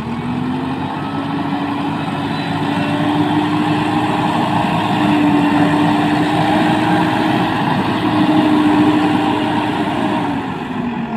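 Heavy diesel engine of earth-moving or farm machinery revving up and held at high revs under load, dropping back near the end.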